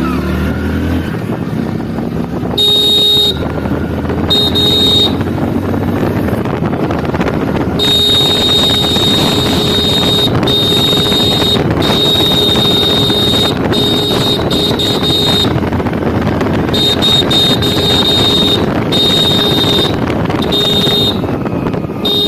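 Hero Splendor Plus Xtec motorcycle's electric horn sounding over and over, some short presses and some held for a couple of seconds, with the bike's engine running underneath.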